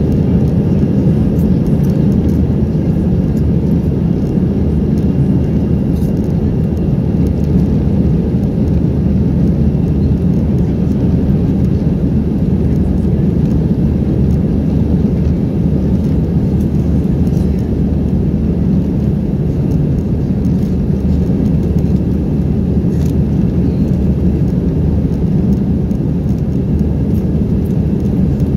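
Airbus A319 cabin noise heard from a window seat: a steady, loud, low rumble of engines and airflow.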